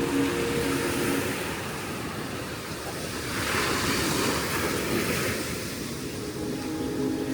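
Ocean surf breaking and washing up the beach, with one wave surging loudest about halfway through.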